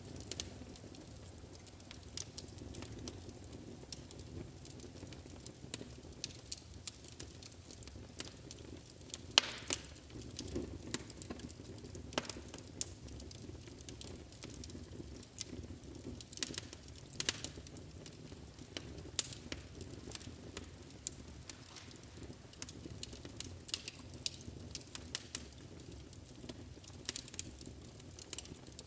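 Wood fire burning in a fireplace, a low steady rumble under irregular sharp crackles and pops, the loudest pop about nine and a half seconds in.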